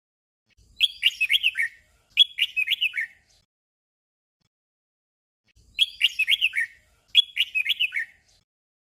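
Red-whiskered bulbul singing a short 'double' song: two quick warbled phrases back to back, given twice about five seconds apart.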